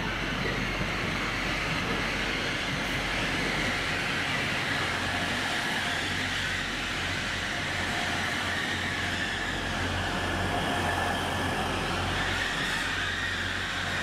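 Hull Trains Class 180 diesel multiple unit running slowly in along the platform, its underfloor diesel engines humming steadily under the rolling noise of its wheels as the coaches go by.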